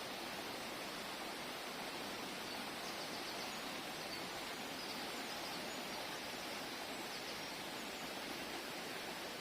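Mountain stream water flowing over rocks, a steady even rush. A few faint high chirps sound through it in the middle.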